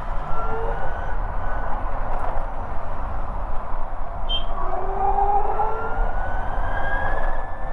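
Ather 450X electric scooter's motor giving a thin whine that rises in pitch as it speeds up, once early and again over the second half, over a steady rumble of wind on the microphone.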